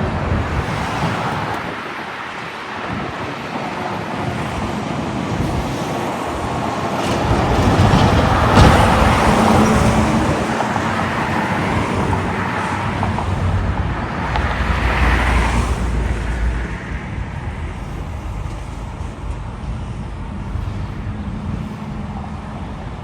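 Road traffic going by: a continuous tyre and engine noise with vehicles swelling past, the loudest about nine seconds in and another with a deep low rumble about fifteen seconds in.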